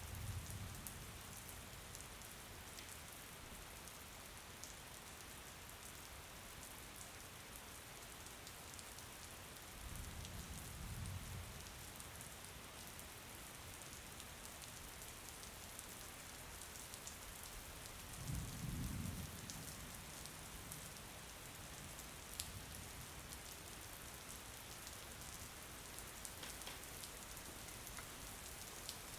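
Steady rain falling on a surface, an even hiss dotted with sharp drop ticks. Three brief low rumbles rise out of it: one at the start, one about ten seconds in and the loudest about eighteen seconds in.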